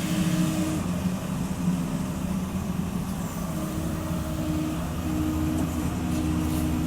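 Forestry harvester on a 0.25-class excavator base, its diesel engine and hydraulics running steadily; a higher hum drops out about a second in and comes back around halfway through.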